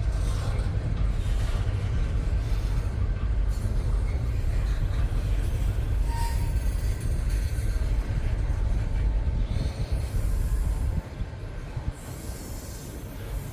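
Freight train rolling past at close range: a steady low rumble of the cars with high-pitched wheel squeal and hiss. The rumble drops off sharply about eleven seconds in.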